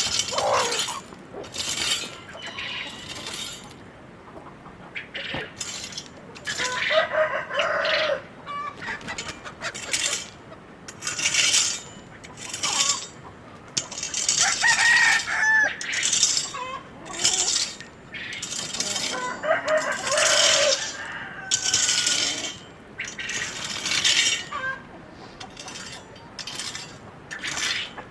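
Domestic chickens clucking and a rooster crowing several times, over repeated sharp clattering and scraping noises.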